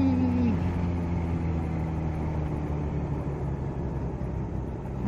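Kawasaki Z H2's supercharged inline-four engine, its note falling in the first half second as the bike slows, then running steadily at low revs.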